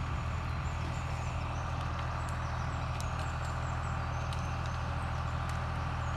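Deutz-Fahr 4055 tractor engine running steadily with an even low hum, with faint short high chirps and scattered clicks above it.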